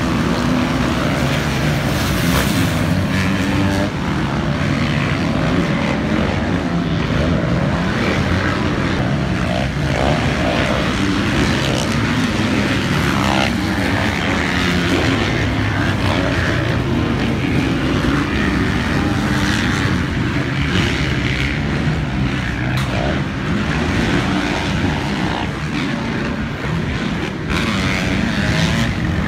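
Motocross bike engine running hard and steadily.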